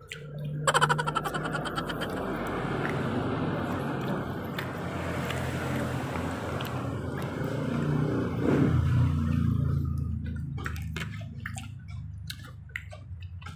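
A motor vehicle's engine running past. It starts abruptly about a second in with a quick run of clicks, swells near the middle and fades away toward the end.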